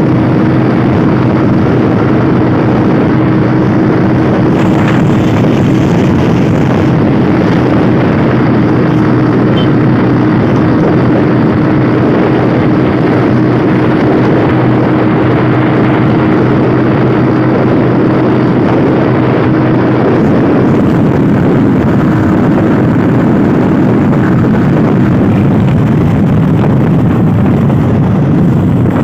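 Motorcycle engine running at a steady speed while riding, with heavy wind rushing over the microphone; the engine's steady hum fades somewhat about two-thirds of the way through.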